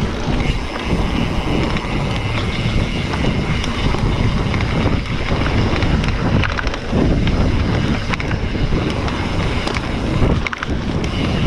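Wind buffeting the microphone over the rumble and rattle of a mountain bike riding a dirt trail, with scattered sharp clicks and knocks.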